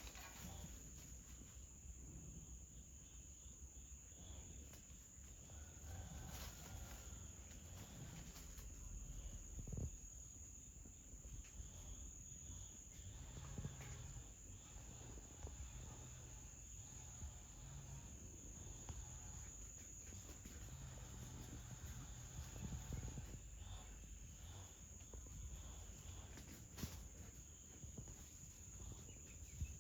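Faint, steady high-pitched insect chorus, with a low rumble and a few soft knocks.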